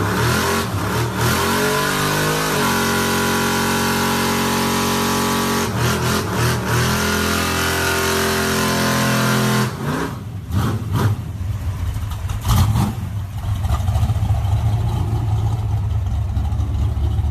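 Diesel engine of an old first-generation 12-valve pickup revving. The revs rise over about two seconds, hold steady at high revs for several seconds, then drop to a lower, rougher rumble about ten seconds in.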